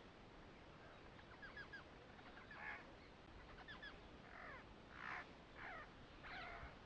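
Faint bird calls: a few quick falling chirps early, then several short, harsher calls scattered through the rest, the loudest about five seconds in.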